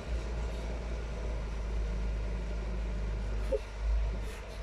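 Heavy diesel machinery running, a steady low engine rumble, with a brief higher-pitched sound about three and a half seconds in.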